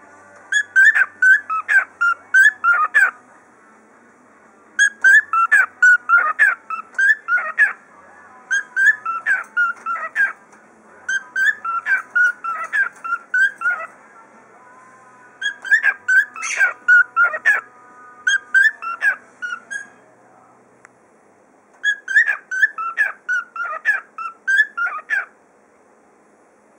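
A cockatiel whistling in repeated phrases of short chirped notes, each phrase lasting two to three seconds with brief pauses between.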